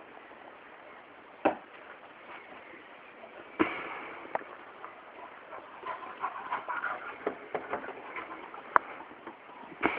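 A dog at play with a thrown toy: two sharp knocks a couple of seconds apart, then a run of lighter clicks and taps, and a last sharp tick near the end.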